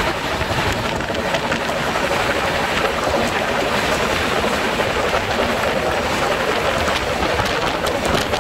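Steady rush of wind and running noise from an Indian Railways express passenger coach travelling at speed in heavy rain, heard from the open coach door with wind on the microphone. A few faint clicks sound through it.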